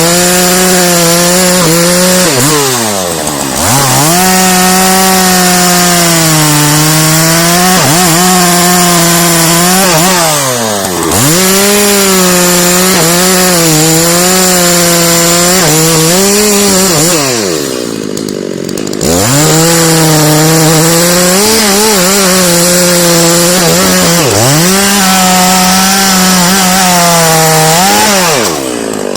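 Two-stroke chainsaw cutting into a tree trunk at high revs, its pitch wavering under load. Several times the engine drops briefly toward idle and revs back up.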